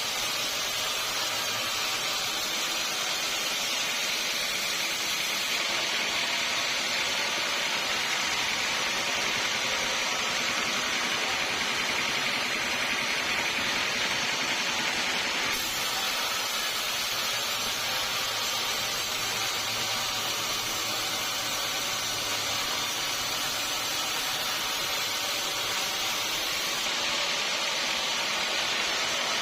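Steady hissing noise of a band sawmill cutting through a teak log, with no breaks and a few sudden shifts in its upper tone.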